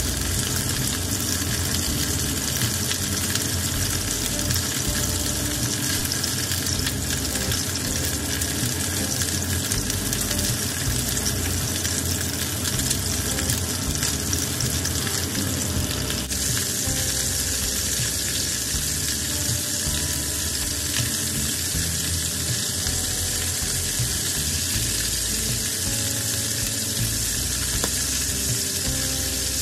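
Chicken wings sizzling as they fry in a pan, a steady sizzle that shifts abruptly a little past halfway.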